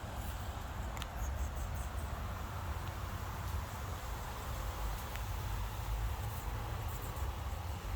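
Quaker parrot eating apple, with faint clicks and a few brief high chirps over a steady low rumble.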